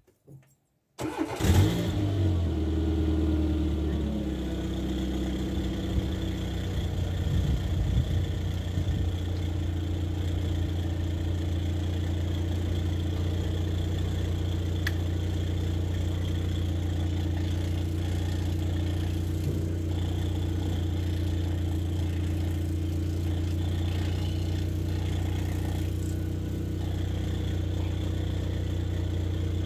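A Dacia Logan's engine cranks and catches about a second in, runs briefly at higher revs, then settles into a steady idle through the exhaust with its newly fitted intermediate muffler. The owner thinks the exhaust seems to be blowing past the rear clamp.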